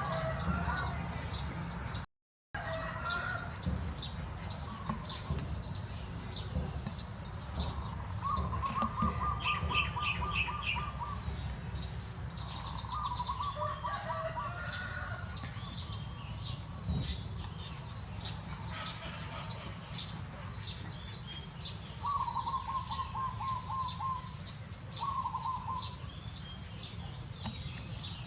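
Birds chirping: a constant stream of rapid, high-pitched chirps, with a lower trilling call breaking in several times. The sound cuts out briefly about two seconds in.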